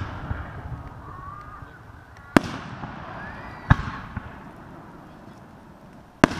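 Aerial fireworks bursting overhead: three sharp bangs, the first about two and a half seconds in, the next just over a second later, and a third near the end, each with a short echoing tail.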